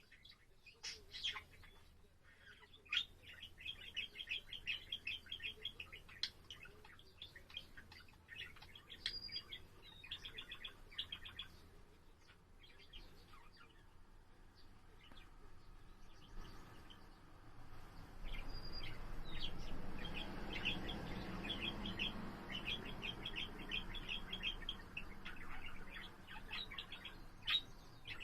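Pet budgerigar warbling: a long run of rapid chattering chirps and trills. About two-thirds through, a steady rushing noise rises underneath the song.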